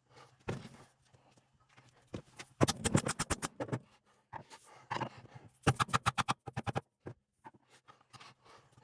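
Hammer tapping on a tool against a part of a 231J transfer case being taken apart, to drive a part that has no proper screwdriver slot. It comes as two quick runs of sharp metal taps, each about a second long, with scattered single knocks between them.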